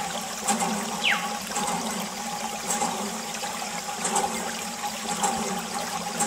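Water pouring and splashing steadily from a miniature DIY water pump, with a short falling chirp about a second in.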